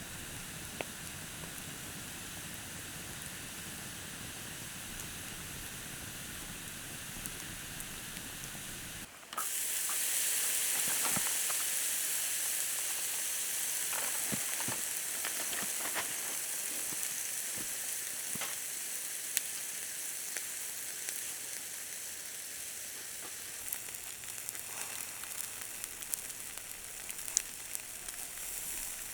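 Steady hissing with scattered faint crackles and clicks. About nine seconds in it cuts abruptly to a louder, brighter hiss that carries on with more crackles.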